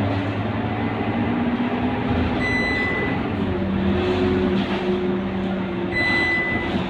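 Scania K230UB bus running under way, its engine note shifting in pitch, with road noise. Two long, high electronic beeps sound about three and a half seconds apart.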